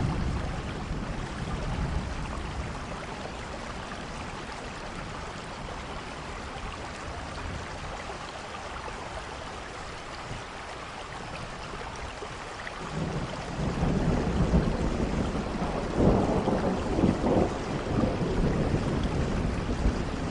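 Steady rain falling with rolling thunder. A rumble dies away in the first couple of seconds, and a new, louder roll of thunder builds about thirteen seconds in and rumbles on in uneven surges to the end.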